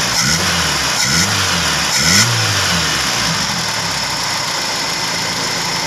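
Honda Grand Civic four-cylinder carburetted engine running. For the first three seconds its speed swells and drops about once a second, then it settles to a steady idle, as the ignition distributor is turned to find the right timing.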